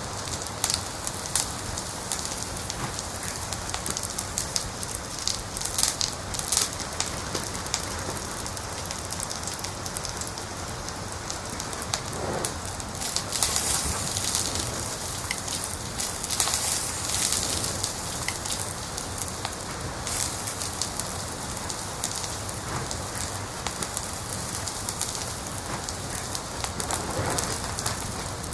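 Wood fire in a fireplace crackling: a steady hiss dotted with frequent small sharp pops and snaps.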